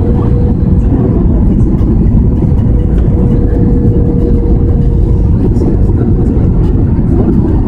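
Loud, steady engine and airflow noise inside the cabin of an Airbus A320 airliner, with a steady hum running through it.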